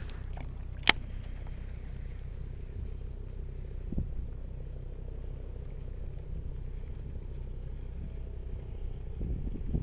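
Steady low wind rumble on the microphone, with a single sharp click about a second in and a soft knock about four seconds in.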